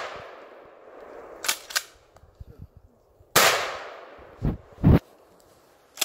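A gunshot fired about three and a half seconds in, its echo fading away over about a second. At the start the echo of a previous shot is still dying down. Two short clicks sound in between, and two duller knocks follow the second shot.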